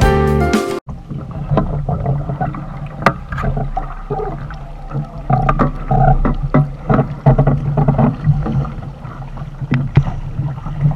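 Background music cuts off abruptly under a second in. Then water sloshing around a small sailboat, with irregular knocks and bumps over a steady low hum.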